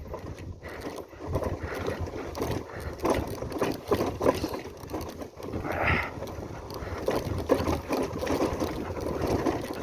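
Motorcycle riding over a rough gravel off-road track: the engine runs low under irregular knocks and rattles as the bike jolts over stones.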